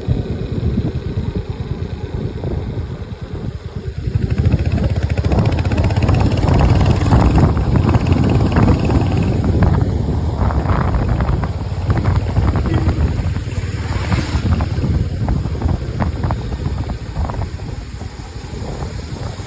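A vehicle engine running on the move, with wind buffeting the microphone; it gets louder about four seconds in.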